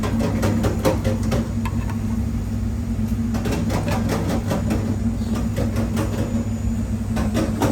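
Steady low hum of a running kitchen appliance under two runs of quick light clicks and clinks of kitchen utensils, the second run about three seconds in and lasting several seconds.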